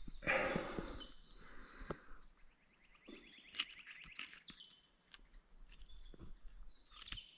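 Faint scraping and clicking of creek gravel and stones being dug out by hand, with a short scrape near the start. A bird trills in the background.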